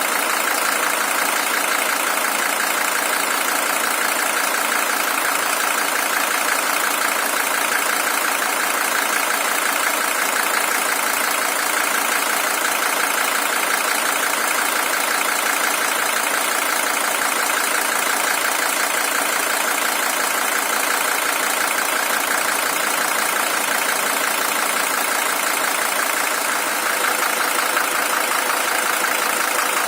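Mercedes-Benz OM617 five-cylinder diesel engine idling steadily with an even diesel clatter; the engine is the original one, with 620,000 km on it.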